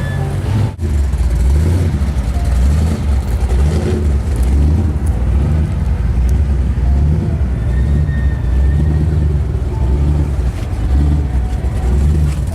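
Lamborghini Gallardo LP 560-4 Spyder's V10 engine running while the car is driven, a deep, uneven drone. It drops out briefly less than a second in.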